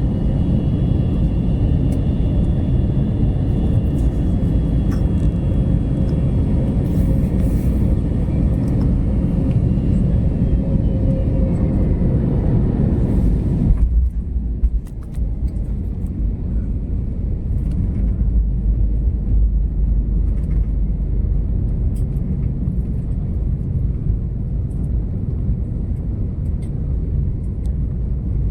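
Steady low rumble of a moving vehicle heard from inside, with faint whining tones that sink slightly in pitch. About halfway through, the higher part drops out abruptly, leaving a duller low rumble.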